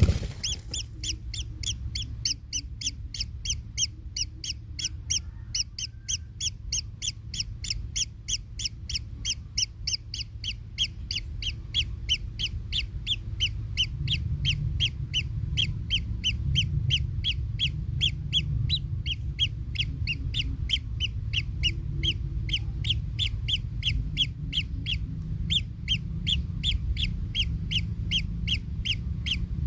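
Kingfisher nestlings calling in the nest: a steady, unbroken run of short high calls, about three a second. Underneath is a low rumble that grows louder about halfway through.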